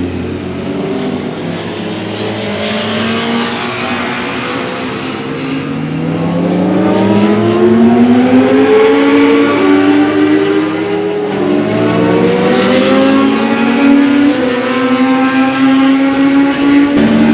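Several racing motorcycles accelerating on a circuit, their engines revving up through the gears with overlapping notes that climb in pitch and drop at each shift. They grow louder about seven seconds in.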